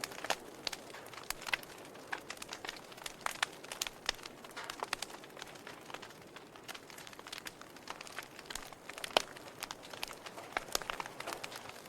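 Wood logs burning in a fireplace, crackling with frequent irregular pops and snaps over a soft hiss; one sharper pop stands out about nine seconds in.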